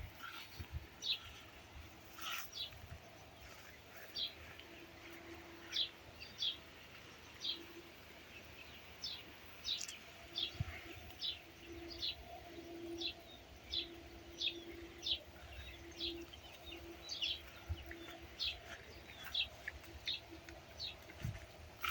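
Birds chirping over and over, short high chirps roughly once or twice a second, with a faint low steady tone coming and going from about five seconds in.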